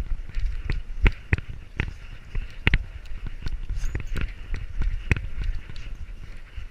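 Knocks and rustle from a GoPro strapped to a running Labrador's back: irregular thumps, a few to each second, as the dog's strides jolt the camera, over a low rumble.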